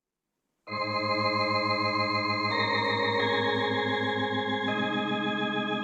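Organ music: sustained chords with a wavering tremolo in the low notes, starting under a second in and moving to new chords a few times.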